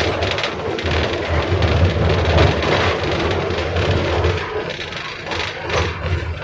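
A 71-605A (KTM-5) tram running along the line, heard from inside the passenger cabin: a steady, loud rumble of wheels on rails and running gear, with light clatter from the track.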